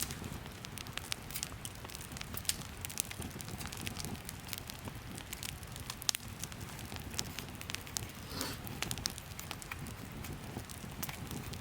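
Wood campfire crackling, with sharp irregular snaps and pops over a steady low rush of the flames.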